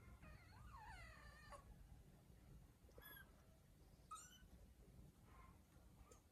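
Kittens mewing faintly: one longer wavering mew at the start, then a few short high cries.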